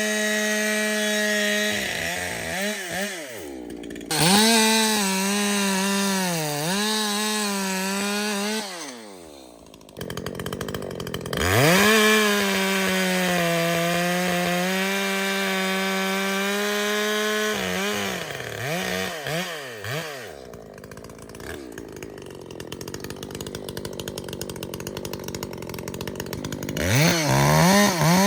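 Ported Echo CS-620PW 60cc two-stroke chainsaw cutting through a log. The engine holds a high, steady pitch under load, dips as the chain bites and revs up between cuts. It drops back to a quieter idle for several seconds near the end, then revs up again.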